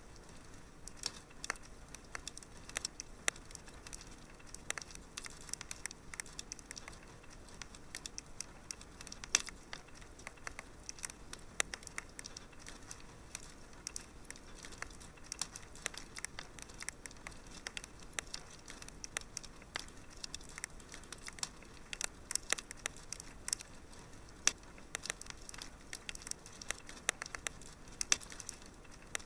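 Wood fire in a fireplace crackling: many small irregular pops and snaps over a faint steady hiss.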